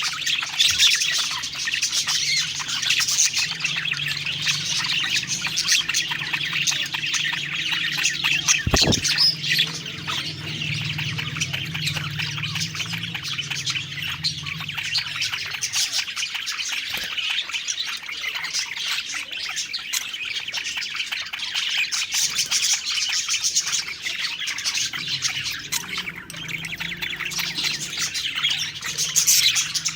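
A group of budgerigars (parakeets) chirping and warbling continuously in quick, overlapping high twitters, with a few sharp clicks. A faint low hum runs underneath for stretches.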